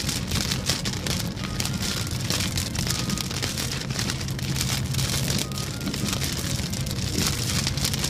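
Heavy rain hitting a moving car's windscreen and roof, heard inside the cabin as a dense spatter of drops over the steady low drone of the engine and tyres on the wet motorway.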